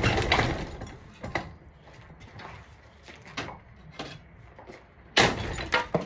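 Irregular knocks, clatter and scraping from objects being handled, with a louder burst of knocks a little after five seconds in.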